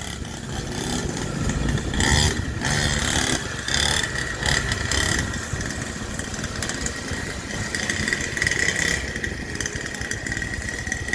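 Small 49cc dirt bike engine running as the bike is ridden off, with several louder surges of throttle between about two and five seconds in.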